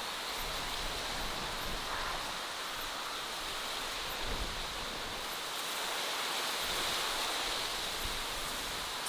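Outdoor nature ambience: a steady, even hiss like running water or wind in trees, strongest in the upper range, with faint scattered high ticks.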